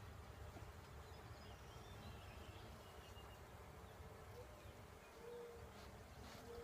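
Faint hum of honeybees at an open hive, with a few short buzzes from bees passing close in the second half.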